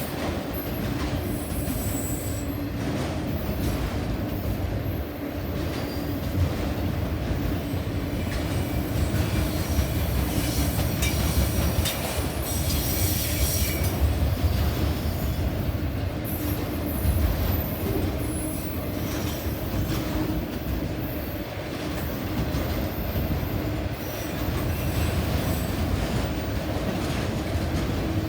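Train cars rolling past: a steady rumble of steel wheels on rail, with thin high-pitched wheel squeals coming and going.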